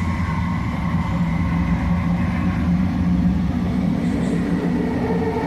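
Interior of a JFK AirTrain car running along its guideway: a steady low rumble with a faint, even motor whine.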